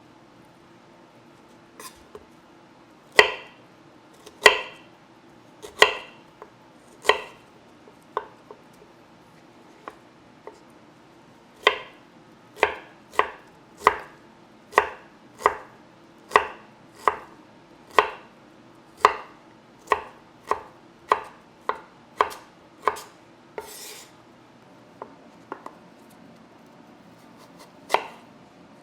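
Knife chopping pear on a cutting board. Single sharp chops come scattered at first, then in a steady run of about one and a half a second, with a short scrape about two thirds of the way through and one last chop near the end.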